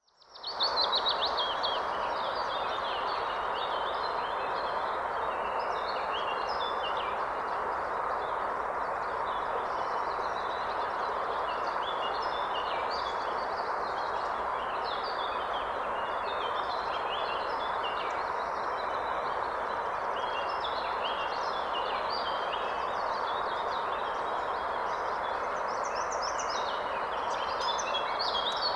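River water flowing steadily, with several small birds singing and chirping over it in quick, short phrases throughout, a little busier near the end.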